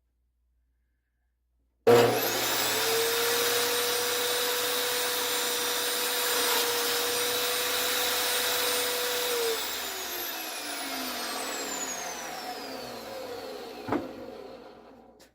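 Table saw motor switched on, running steadily with its blade spinning for about seven and a half seconds, then switched off and winding down with a falling whine. A knock comes near the end of the run-down.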